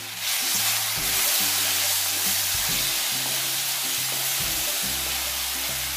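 Chopped banana pieces sizzling in hot ghee in a kadai as a wooden spatula stirs them, a steady frying hiss that swells up just after the start. Soft background music plays underneath.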